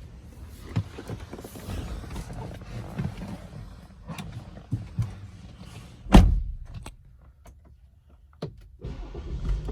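Clicks and knocks from someone handling a vehicle, with one loud thud about six seconds in, like a car door shutting.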